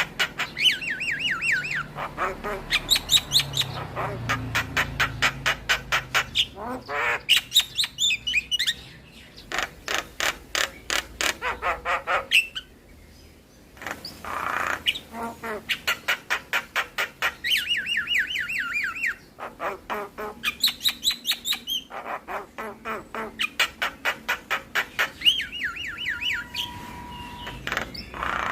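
Javan myna (jalak kebo) singing: phrases of a few seconds made of fast, repeated notes, several a second, with a short pause about halfway through.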